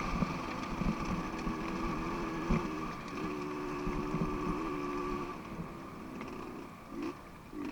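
Dirt bike engine running steadily, with a pitch that wavers slightly.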